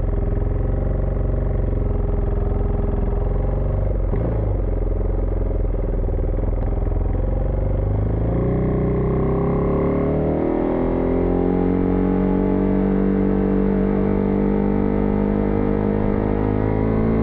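Husqvarna Vitpilen 401's single-cylinder engine running on the move, its pitch climbing from about eight seconds in as the bike accelerates, then holding steady at cruising speed. The sound is muffled and dull, with no high end.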